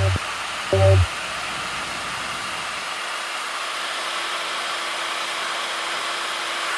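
Hair dryer running with a steady rushing blow and a faint motor tone. A short snatch of music cuts off about a second in.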